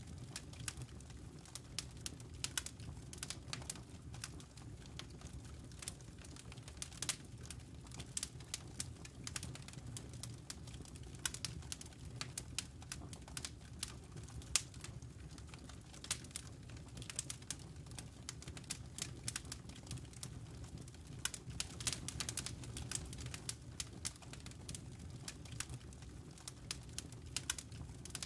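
Campfire crackling: irregular sharp pops and snaps from burning wood and embers over a low, steady rumble.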